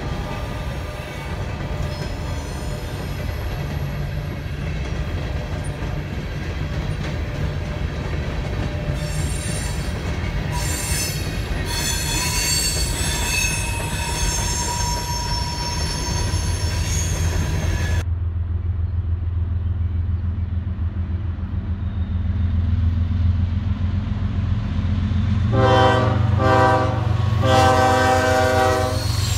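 Freight cars of a CSX train rolling past with steady wheel-on-rail noise and wheel squeal in the middle. After that a diesel locomotive's low engine rumble comes in, and near the end its air horn sounds in a few blasts, the last one held.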